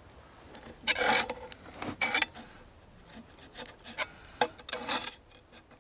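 Scraping of a utensil across the metal lid of an outdoor pan, loosening melted cheese chips that stick to the uncoated surface: a few short rasping strokes, the strongest about a second in and about two seconds in.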